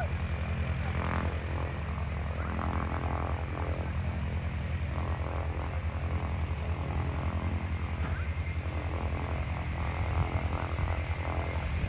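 Piston engine of a propeller-driven WWII fighter running at low power while taxiing, a steady, rapidly pulsing drone.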